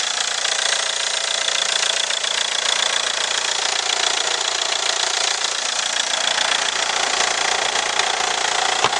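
Ford Mondeo's 2.0 Duratorq four-cylinder diesel idling steadily with the bonnet open, the usual diesel clatter running evenly throughout. A single sharp knock near the end.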